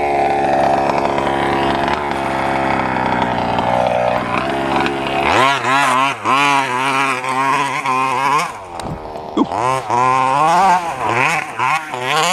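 Small gasoline two-stroke engine of a large-scale RC stadium truck running at a steady high speed, then from about five seconds in dropping lower and revving up and down over and over with the throttle.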